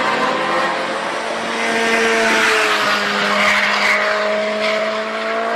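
Vehicle engine held at high, fairly steady revs, with its pitch wavering slightly, under a loud hiss of tyre skid and squeal, as in a burnout or hard slide.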